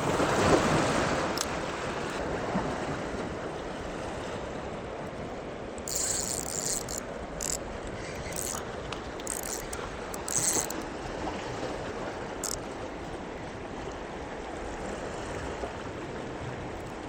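Steady wash of moving seawater, with several short, higher-pitched rattling bursts between about six and thirteen seconds in.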